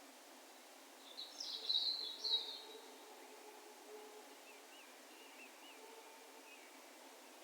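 A bird gives a short, loud burst of high twittering chirps about a second in, followed by fainter distant whistled calls that waver up and down, over the quiet hiss of an open field at dusk.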